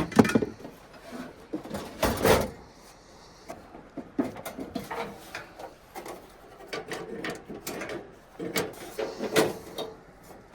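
Knocks, clunks and rattles of camping gear being rummaged and moved about, with a louder clunk about two seconds in.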